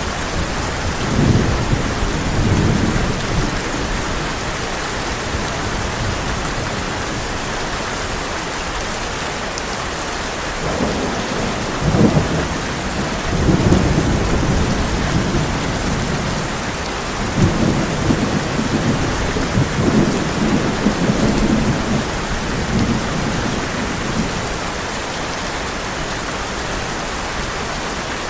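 Heavy rain falling steadily on a tin roof, with rolling thunder rumbling low several times: near the start, around the middle, and again in the later half.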